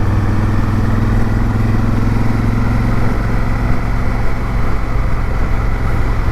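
Honda Africa Twin's parallel-twin engine running at a steady pace under way, with a constant rushing noise over it. The engine note thins slightly about halfway through.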